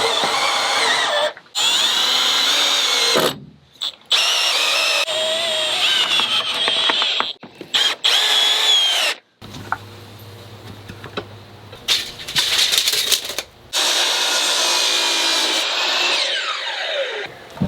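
A cordless power drill/driver drives screws into wood framing lumber in a series of bursts separated by short pauses. The motor's pitch sags and wavers as each screw bites, and it winds down with a falling whine near the end.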